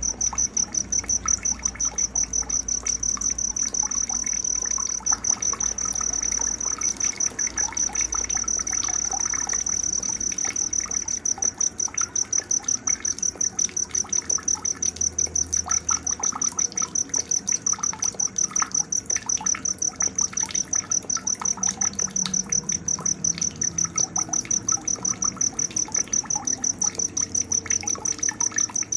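Night nature sounds: a high-pitched insect trilling in even, rapid pulses without a break, the loudest sound, over scattered bird chirps and calls.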